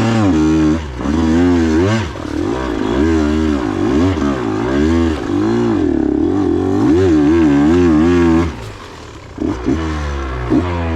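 KTM 125 XC two-stroke dirt bike engine revving up and down over and over under throttle. About eight and a half seconds in it falls back to a lower, quieter note for a moment, then revs again.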